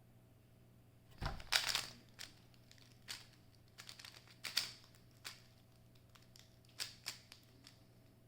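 A speed cube being turned by hand: irregular plastic clicks and short clatters, the loudest a little over a second in, after a quiet first second.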